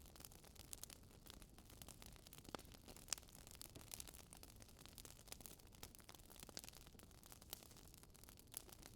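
Fire in a fireplace crackling softly: irregular small pops and snaps over a faint hiss, with one sharper pop about three seconds in.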